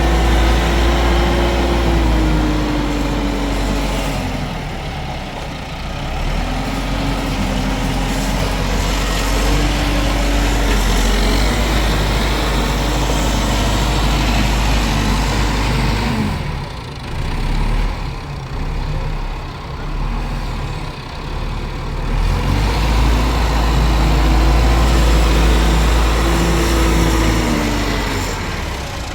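Heavy engine of the concrete-pouring machinery (tractor or mixer) running loud with a deep rumble and a whine that drops and recovers in pitch several times, easing off briefly about two-thirds of the way through.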